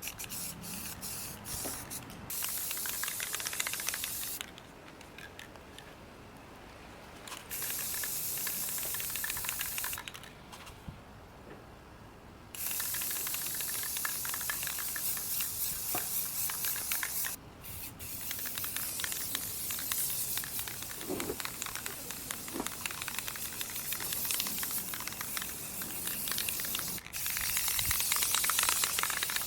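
Aerosol can of black spray paint hissing as it is sprayed onto a wheelbarrow in several long passes. The passes last from a few seconds to about ten, with brief pauses between them.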